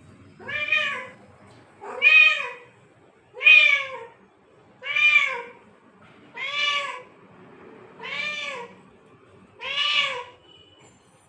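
Domestic cat meowing seven times in a row, a call about every one and a half seconds, each meow rising and then falling in pitch.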